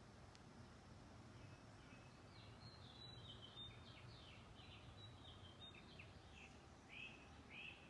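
Faint outdoor birdsong: a run of quick high chirps and trills from a few seconds in, ending with two slightly louder down-slurred notes near the end.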